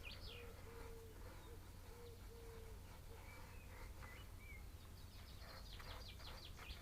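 Faint wild birdsong: quick runs of high, sweeping chirps at the start and again near the end, with a few short chirps in between, over a low background hum.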